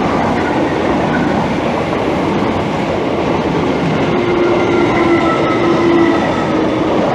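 Two coupled Class 321 electric multiple units passing close by: a loud, steady rush of wheels on rail. A faint humming tone comes in about four seconds in.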